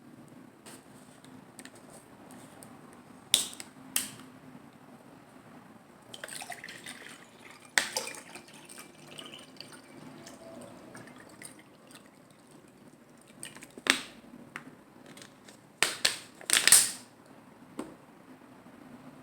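Close-miked eating of lettuce-wrapped salad rolls: a handful of sharp, wet crunches and mouth clicks spread through, the loudest near the end, between quieter chewing.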